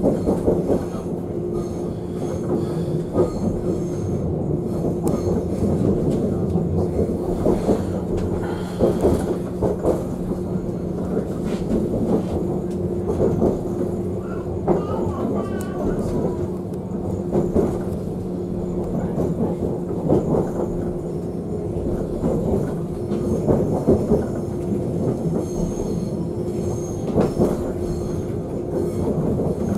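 Passenger train running, heard from inside the carriage: a steady low hum under rumble and the irregular clack of wheels over rail joints, with a brief wavering wheel squeal about halfway.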